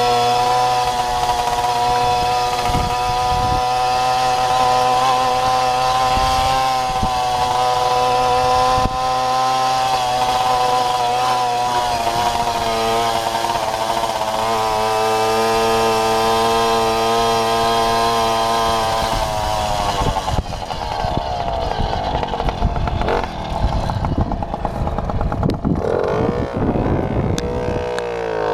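Babetta moped's small two-stroke single-cylinder engine buzzing at steady high revs, then, about two-thirds of the way in, the revs drop and rise unevenly with the throttle.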